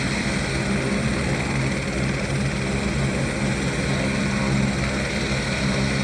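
Helicopter's turbine engine and rotor running steadily at full power, with a fast, even rotor chop, as it lifts off the helipad.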